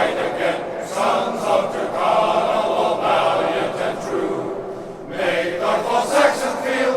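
Glee club choir singing a sustained passage live, with a short break between phrases about four and a half seconds in before the voices come back in together.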